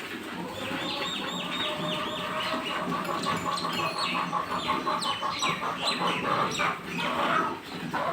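Birds calling: quick, high, falling chirps repeated many times, with a fast trill-like run of notes through the middle.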